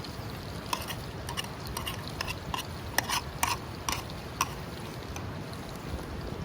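An eating utensil clicking and scraping against a dish about a dozen times in quick succession while someone eats, over the steady rush of a stream.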